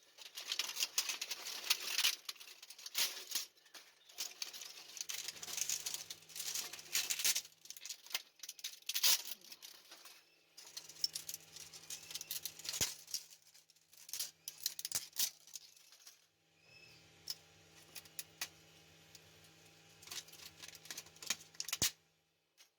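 PLA+ 3D-print support material being broken and peeled off a printed pistol prop: irregular crackling and scraping of plastic with sharp snaps. A low steady hum comes and goes several times underneath.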